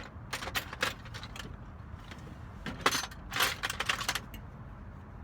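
Light metallic clicks and clatters of small screws and tools being handled against a mortise lock's metal case, in two clusters: a few clicks about half a second in, then a louder run of clatters around three seconds in.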